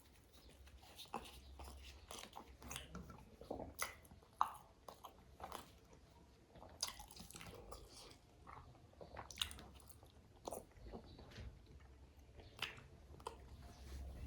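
Close-miked chewing and biting of food: irregular wet clicks and crunches, one sharper bite about four seconds in.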